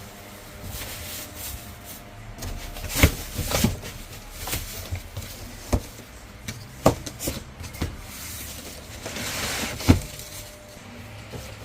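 Irregular knocks and bumps of things being handled, the loudest about three seconds in and just before the end, with a rushing hiss leading into the last one.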